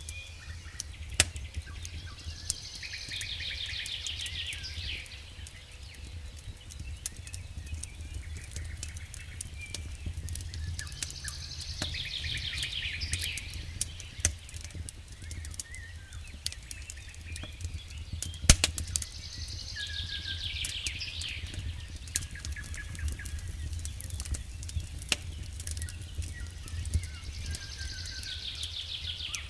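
A songbird repeats the same short descending trill four times, about every eight seconds, over the sharp snaps and crackles of a burning campfire and a steady low rumble.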